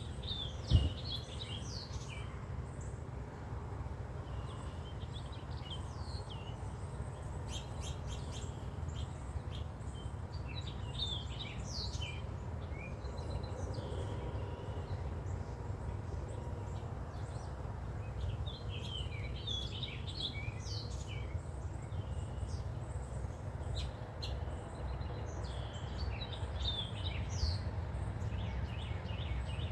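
Several songbirds chirping and trilling in bursts, over a steady low rumble. A single sharp thump just under a second in.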